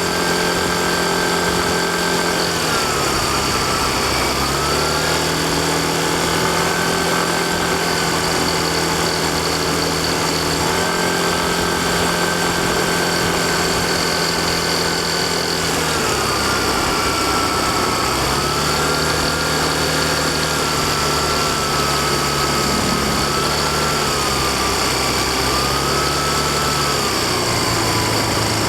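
Yamaha Fazzio scooter's single-cylinder engine running on the move. Its pitch holds steady, dips and climbs back about three seconds in, then from about sixteen seconds wavers up and down as the throttle is eased and opened again. A steady rushing noise runs underneath.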